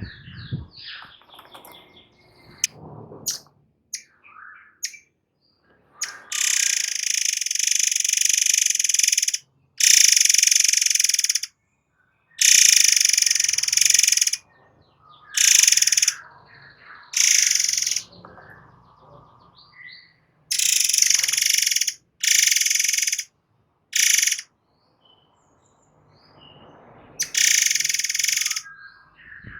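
A murai air songbird singing in repeated bursts of shrill, rapid, buzzy song, each one to three seconds long and cut off sharply, with softer chirps in between.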